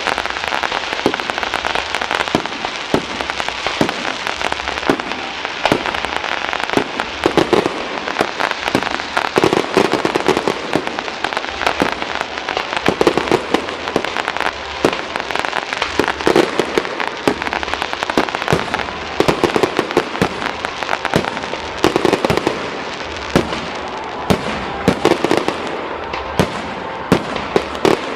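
Fireworks display: a dense, continuous run of sharp bangs and crackles, with louder bursts every few seconds.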